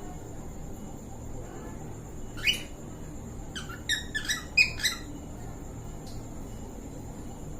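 Cockatiel mating call: one rising chirp about two and a half seconds in, then a quick run of about five rising chirps a second later.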